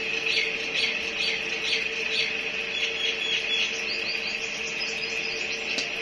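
Birds chirping: short high calls repeated about twice a second, then a quicker run of higher chirps near the end, over a steady high-pitched tone.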